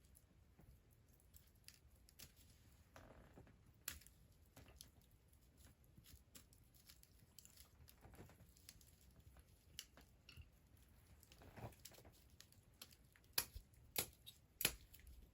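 Newly lit wood fire crackling faintly, with scattered small clicks and a few sharp pops near the end.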